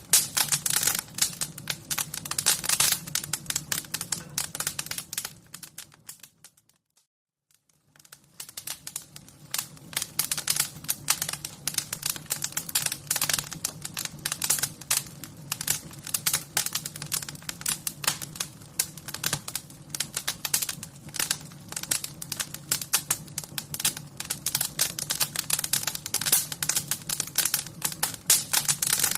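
Wood fire crackling with dense, irregular pops and snaps over a low steady rumble. It fades out to near silence about six seconds in and fades back in about two seconds later.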